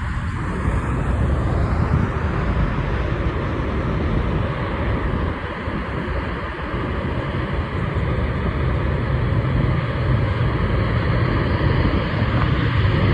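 Airbus A380's four Rolls-Royce Trent 900 jet engines roaring on the landing approach, a steady heavy rumble that grows louder near the end as the aircraft comes closer.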